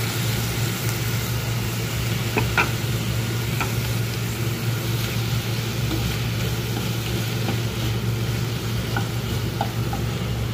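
Raw shrimp sizzling in hot oil with sliced green chillies and carrots in a frying pan, stirred and scraped with a wooden spatula that gives a few light clicks against the pan. A steady low hum runs underneath.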